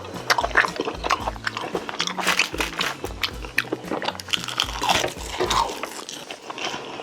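Close-miked chewing and crunching of food: a dense run of crisp, wet mouth clicks. Background music with a steady bass line plays underneath.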